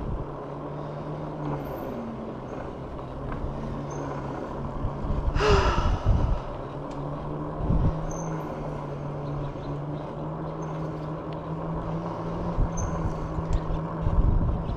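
E-bike riding along: wind buffeting the microphone and rolling noise, under a steady low hum. About five and a half seconds in there is one short, loud hiss.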